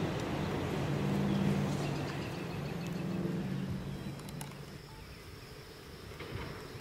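Reading & Northern Budd RDC rail diesel cars fading away down the line: a low engine drone with steady tones that dies away about four seconds in. After that, quiet summer ambience with a faint steady high insect buzz.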